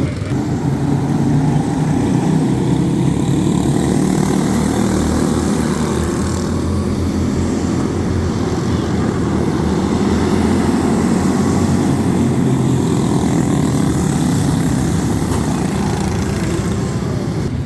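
Go-karts with Briggs & Stratton Animal single-cylinder four-stroke engines running at race speed, a loud steady drone of engines.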